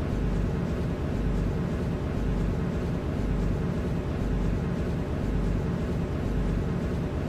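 Steady low hum and rumble inside an MTR C-Train carriage, with a deep throb that pulses about once a second.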